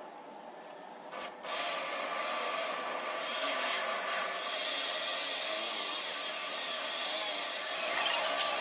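A power tool starts working metal about a second and a half in, a loud, steady, gritty hiss over a machine hum.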